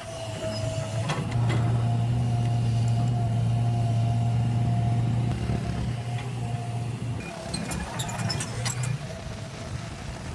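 Heavy machine's diesel engine running with a steady low drone and a thin whine above it. It gets louder about a second in, eases off about halfway through, and a run of sharp clicks or clanks comes near the end.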